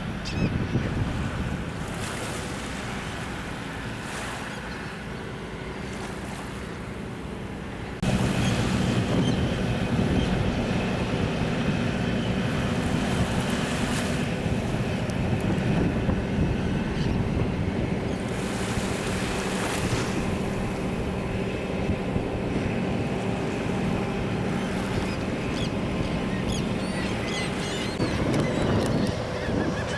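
Wind buffeting the microphone over sea water and surf, with a steady low hum underneath; the noise gets suddenly louder about eight seconds in.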